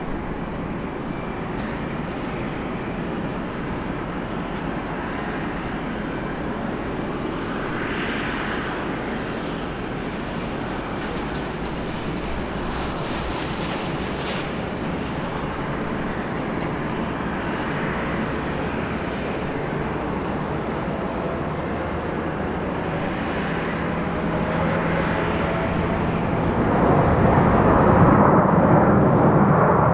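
Airbus A330 airliner on its landing approach, its jet engines a steady rumbling whine that grows louder, swelling sharply near the end as it comes close.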